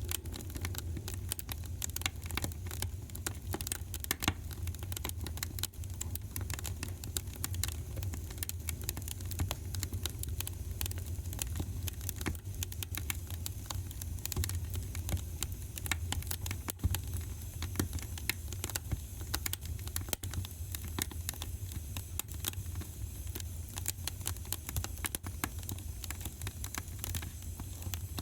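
Wood fire burning in a fireplace, crackling continuously with many small irregular pops over a steady low rumble.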